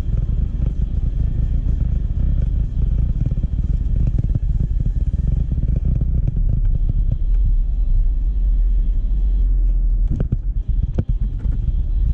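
Pickup truck driving, heard from inside the cab: a steady low engine and road rumble, with a few sharp knocks about ten seconds in.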